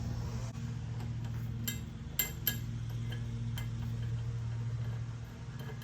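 A few light metallic clicks and clinks as the meat slicer's blade and its parts are handled and fitted, over a steady low hum.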